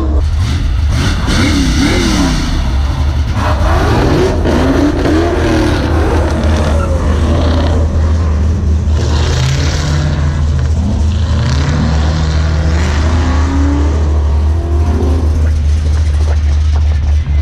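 Car engine running under a loud, steady low rumble, its pitch rising and falling several times as it revs and accelerates.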